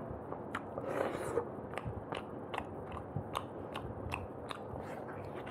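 Close-miked eating of roast chicken and rice by hand: wet chewing clicks, about two to three a second, with a brief rustle of meat being torn apart about a second in.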